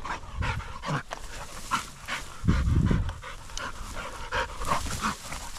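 Young German shorthaired pointer panting in short, repeated breaths close to the microphone, with a brief low rumble about two and a half seconds in.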